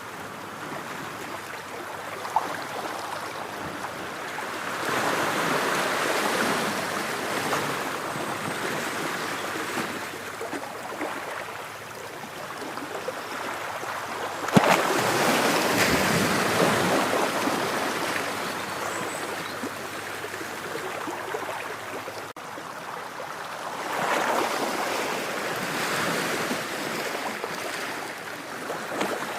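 Ocean waves breaking and washing on a shore, in slow surges. The biggest comes about halfway through with a sudden crash, and others swell near the start and near the end.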